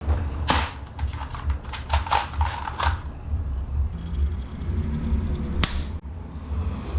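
A quick run of sharp clicks and taps, then a single sharp click a few seconds later, over a steady low hum.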